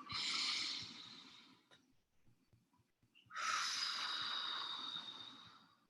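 A person taking a deep breath close to the microphone: one breath just over a second long that fades at the start, then, after a pause, a longer breath of about two and a half seconds.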